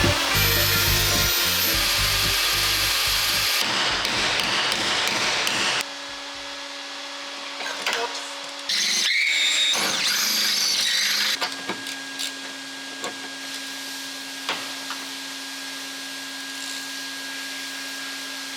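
Power tool running in a workshop in several separate stretches, loudest for the first six seconds and again briefly near the middle, with quieter steady humming between.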